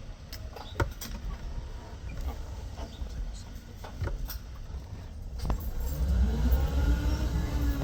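Car on the move, heard from inside the cabin: steady low road and engine rumble with a few light clicks and knocks. From about six seconds in, a louder engine sound comes up whose pitch rises and then falls.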